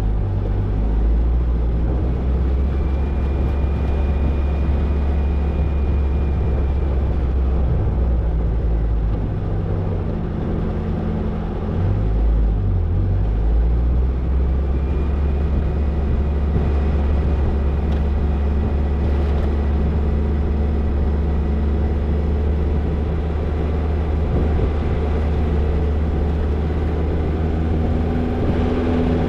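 Toyota Tercel 4WD wagon's engine running as it drives along a dirt trail: a steady low rumble whose engine note changes a few times, around ten to thirteen seconds in, as the speed changes.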